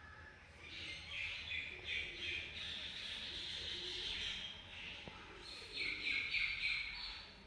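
Birds calling: a run of quick, high calls, loudest about a second in and again near the end.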